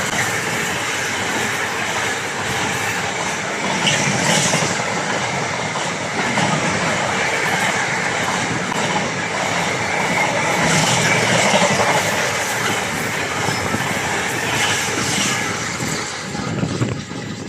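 Freightliner freight train, double-headed by Class 90 electric locomotives, rolling past: a steady rumble of wagon wheels on the rails with a clatter over the joints every few seconds and a faint high squeal. The noise falls away near the end.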